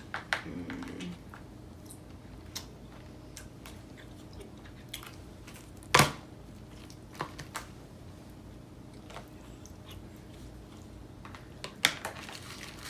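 People chewing and biting food, with scattered sharp clicks and crunches; the loudest comes about six seconds in.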